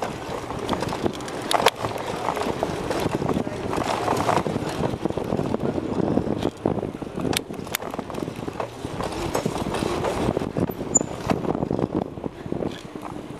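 Bicycle ridden fast, heard from a camera carried on the ride: a steady rushing rumble with rattling, and a few sharp knocks, two of them close together about halfway through.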